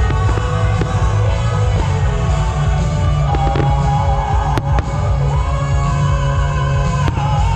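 Loud music with heavy bass and a held melody, with a few sharp fireworks bangs cutting through it: one clear bang a little past the middle and another near the end.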